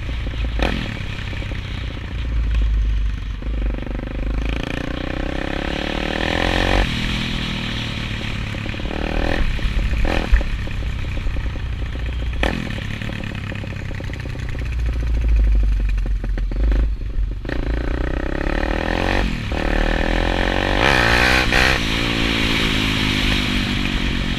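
Single-cylinder four-stroke engine of a 190cc Daytona pit bike being ridden hard. The revs climb and fall again and again, with several brief throttle cuts.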